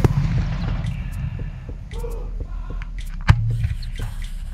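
A fireworks battery's rapid volley of bangs stops just after the start. Fading crackle and scattered faint pops follow, with one sharp bang a little over three seconds in.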